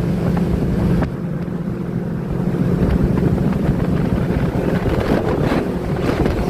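Motorboat engine running steadily under way, with wind buffeting the microphone and water noise; it grows a little louder after about two seconds.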